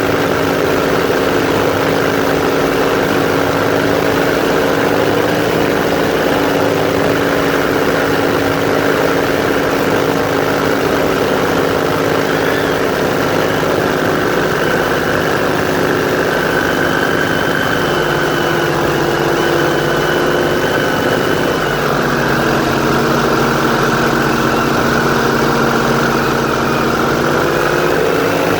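Airboat engine and propeller running loud and steady. The engine note drops and rises slightly a few times in the second half as the throttle changes.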